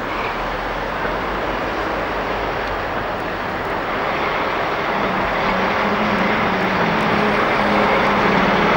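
Diesel train approaching, its engine drone growing steadily louder, with a steady engine note coming in about halfway through.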